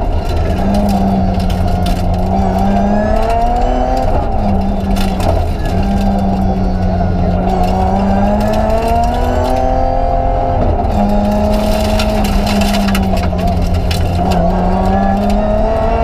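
BMW 325 Group A rally car's straight-six engine at full effort, heard from inside the cabin: the pitch climbs and then falls back sharply several times as the car changes gear and lifts between corners.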